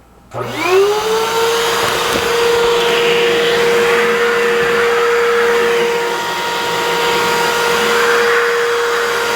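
Vacuum cleaner switched on: the motor spins up with a rising whine, then runs steadily with a loud rush of air, its tone sagging briefly partway through.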